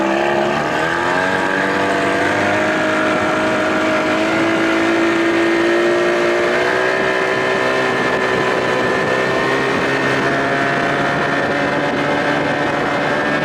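Johnson 25 hp outboard motor running under way. About a second in, its pitch dips and then climbs as it is throttled up, and it then holds a steady high speed.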